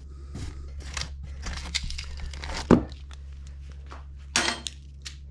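Packaging rustling and crinkling as a rip fence is unboxed, with a sharp knock about two and a half seconds in and a louder rustle near the end, over a steady low hum.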